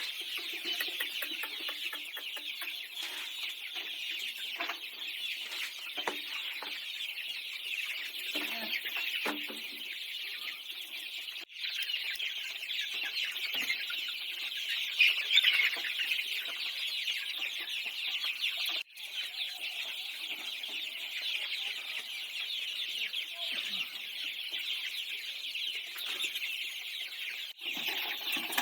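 Chickens clucking over a steady high-pitched din, the sound of a farmyard flock. The sound drops out briefly three times.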